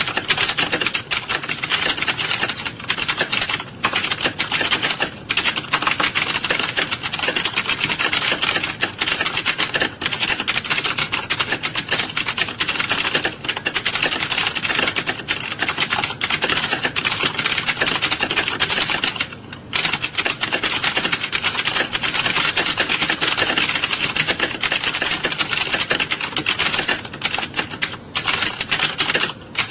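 Many keyboards typed at once in a typing class: a dense, continuous clatter of overlapping key clicks with no pauses, thinning briefly about two-thirds of the way through.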